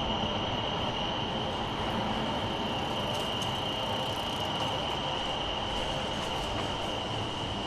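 Train running nearby: a steady rumble with a constant high-pitched whine.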